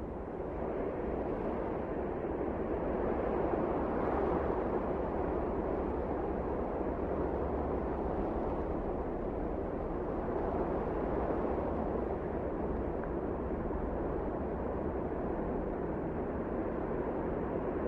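Wind blowing in a snowstorm: a steady, deep rushing noise that swells over the first few seconds and then holds.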